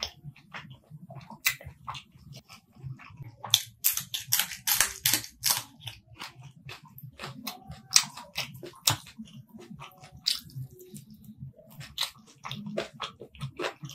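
Close-miked mouth sounds of a person eating rice and chicken curry by hand: wet chewing, lip smacks and clicks. A run of loud crunchy bites comes about four to five seconds in, with sharp single crunches near eight and nine seconds.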